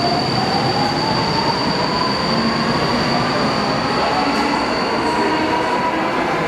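Incheon Metro Line 2 Series 2000 train running, with a steady high-pitched whine and a lower motor whine that slowly rises in pitch as the train picks up speed.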